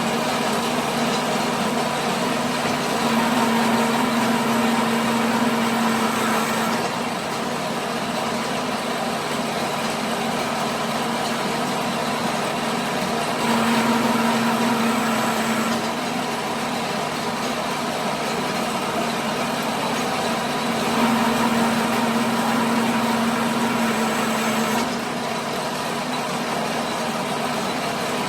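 A workshop machine running steadily with a constant hum, growing louder for three stretches of a few seconds each, about eight seconds apart.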